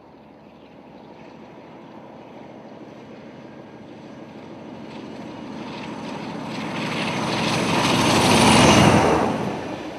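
Class 47 diesel locomotive approaching and passing at speed. Its engine and the train's noise build steadily, reach a loud peak near the end as it goes by, then fall away quickly.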